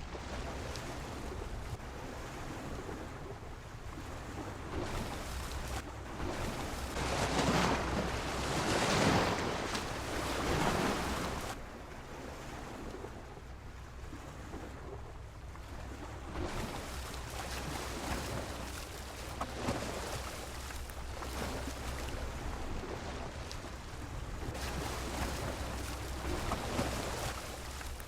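Sea waves washing against a pier: a rushing surf noise that swells and falls, with its biggest surge about seven to eleven seconds in and smaller ones later.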